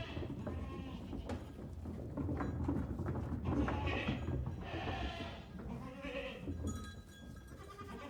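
Farm livestock calling several times, with a few separate bleating calls over a steady low rumble.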